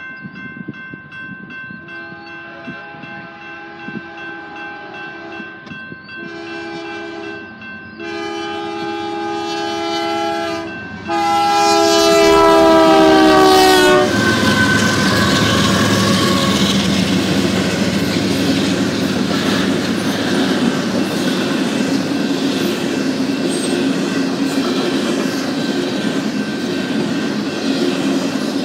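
BNSF diesel locomotive's air horn sounding four blasts of several notes at once as the train approaches, growing louder, with the last blast dropping in pitch as the locomotive passes. The locomotive then goes by, followed by double-stacked intermodal container cars rolling past with steady wheel rumble and clatter.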